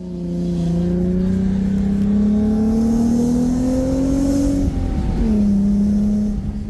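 1995 Acura Legend coupe's V6 engine accelerating under load, its pitch rising steadily for about four and a half seconds, then dropping at a gear change and holding steady.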